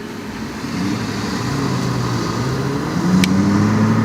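Aston Martin supercar engine accelerating as the car approaches and passes, growing steadily louder, its pitch rising steadily from about three seconds in. A short sharp click comes at about the same point.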